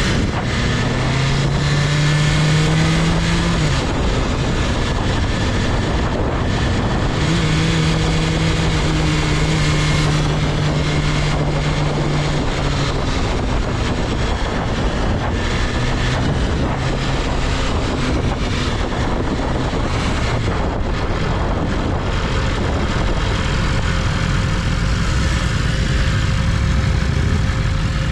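BMW S1000RR's 999cc inline-four engine running at speed on the move, its note held steady for a few seconds at a time and sliding down between, under heavy wind rush on the microphone.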